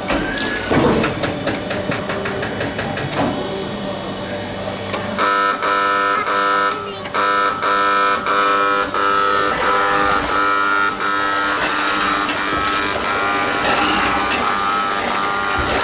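An electronic warning buzzer sounding in a steady on-off pattern, beginning about five seconds in. Before it comes a short run of rapid, even ticking.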